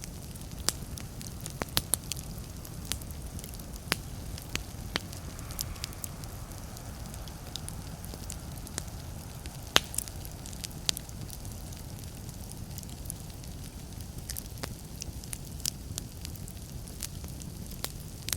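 Fireplace fire crackling: irregular sharp pops and snaps over a steady low rumble, with the loudest pop about halfway through.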